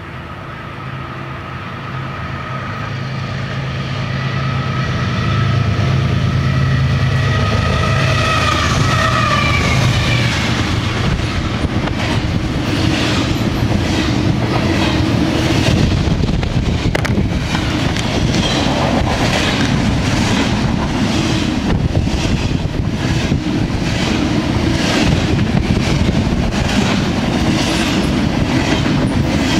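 A BNSF double-stack intermodal train hauled by GE diesel locomotives approaches and passes. The rumble grows louder over the first several seconds, and the locomotives' steady tones drop in pitch as they go by about ten seconds in. After that the loaded well cars roll past with a regular clickety-clack of wheels on the rails.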